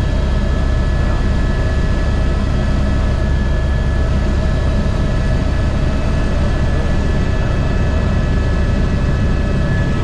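Airbus H125 helicopter running steadily in flight: a loud, even engine and rotor noise with thin, steady high whining tones above it.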